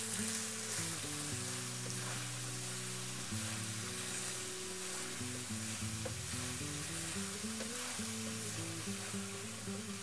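Julienned potato strips sizzling steadily in hot oil in a stainless steel wok as they are stir-fried, over background music with held, stepping notes.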